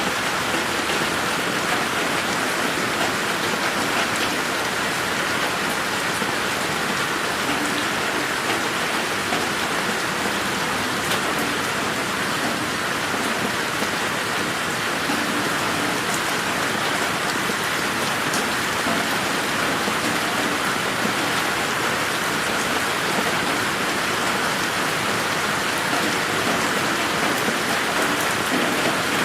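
Steady rain falling on a garden, an even hiss of many drops with scattered individual drop ticks, panned around the listener by 8D processing.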